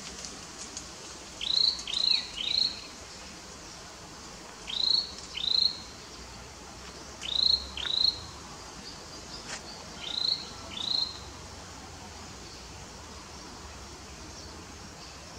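A bird calling: short whistled notes that rise and then fall, given in groups of two or three, about nine in all, over steady background hiss.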